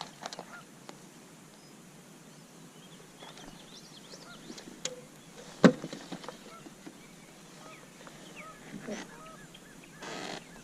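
Birds calling repeatedly, with honking, goose-like calls among them. One sharp knock a little past halfway is the loudest sound, and a brief rush of noise comes near the end.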